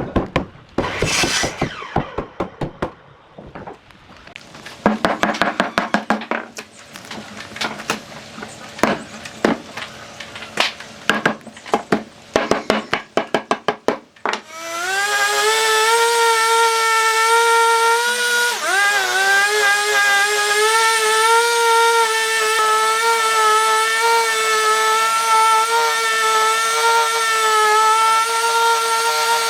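Irregular sharp knocks and brief scraping on wood from hand work. Then, about halfway through, a high-speed electric power tool spins up to a steady whine, dips briefly once as it takes load, and runs on steadily.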